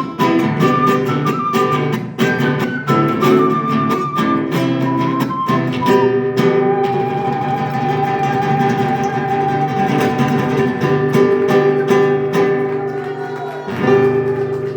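Music on acoustic guitar: quick plucked notes for the first few seconds, then a long held note with a slight waver over the guitar from about halfway through.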